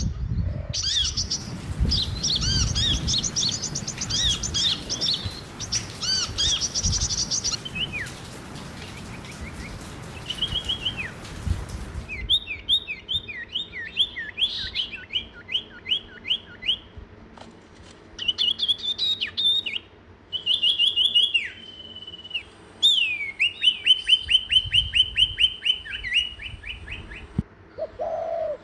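Small songbirds chirping and singing in quick runs of high repeated notes, with a low rumble underneath for the first half. Later the background clears and one bird gives a fast, even trill of short notes.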